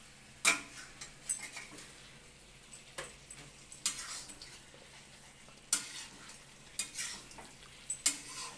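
Metal spoon clinking and scraping against a metal cooking vessel of finished chicken tikka masala, about eight sharp, irregular strokes over a faint steady background.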